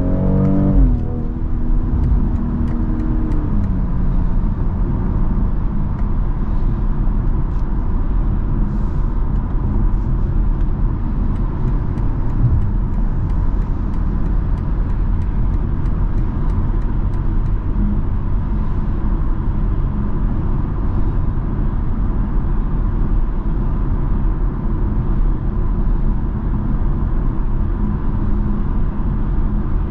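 BMW X3 M40i's turbocharged inline-six heard from inside the cabin, its note falling as the automatic gearbox upshifts about a second in and again a few seconds later. It then settles into steady freeway cruising under tyre and road noise.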